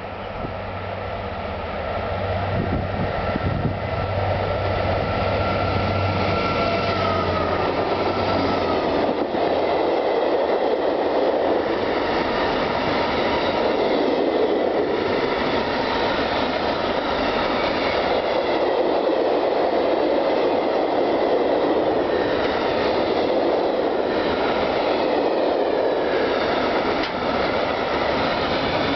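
Three class 6400 diesel-electric locomotives hauling an empty iron ore train, their engines droning with a high whine that dips in pitch about eight seconds in as they go by. A long string of empty ore hopper wagons then rolls past with steady wheel-on-rail noise and faint wheel squeal.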